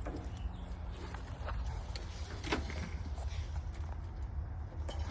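Irregular footsteps on the forest floor, with light cracks of twigs and leaf litter every half second to second, over a steady low rumble.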